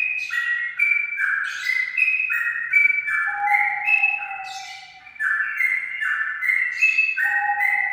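Straw-headed bulbul (cucak rawa) singing loud, rich whistled phrases of notes that step up and down in pitch, repeated over and over, with a short pause about five seconds in.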